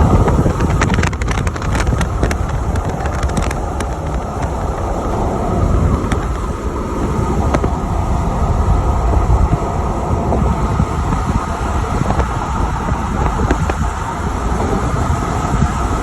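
A car driving at speed: steady road and wind noise, with wind buffeting the microphone and a few light clicks, most of them in the first few seconds.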